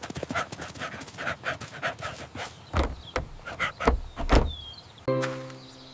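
Dog panting fast and rhythmically, about four to five breaths a second, with a few heavy thumps in the middle. A low steady tone starts suddenly about five seconds in.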